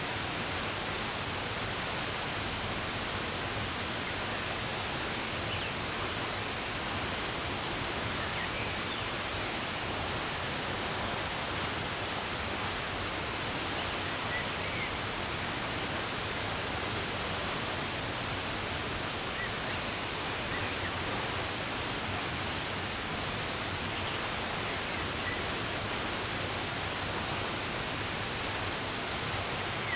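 Steady rush of running water, with faint short bird chirps now and then.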